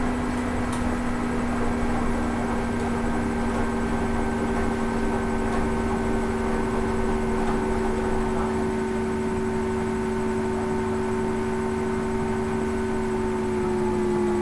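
Hoover Ecologic 800 automatic washing machine running on its rinse cycle: a steady motor hum and whir that drops slightly in pitch near the end.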